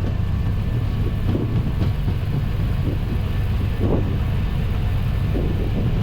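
Airbus A320 flight deck on the takeoff roll at takeoff thrust: a steady low rumble of the engines and the wheels on the runway as the airliner accelerates past 100 knots towards rotation.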